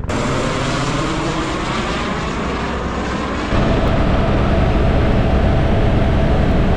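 Pickup helicopter approaching, its rotor and engine noise loud and steady, stepping up suddenly louder about three and a half seconds in.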